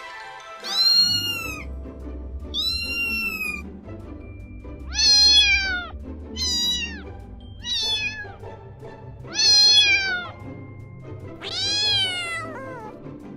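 Kitten meowing repeatedly, about seven separate meows, each rising and then falling in pitch, over quiet background music.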